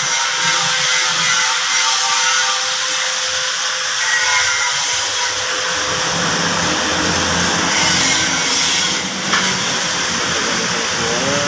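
Power tool running steadily, driving in the CVT transmission casing bolts, over a constant background hum.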